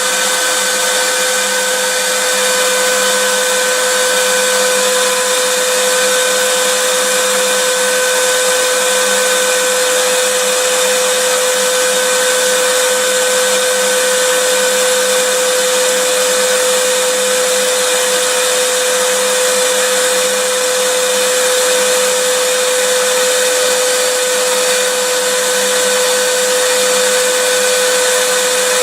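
Vacuum cleaner running steadily: a continuous rushing hiss with a steady motor whine, no change in pitch or level.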